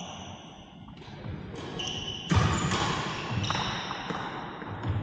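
Badminton rally on an indoor court: several sharp racket hits on the shuttlecock, the loudest about two seconds in, with sports shoes squeaking on the court floor.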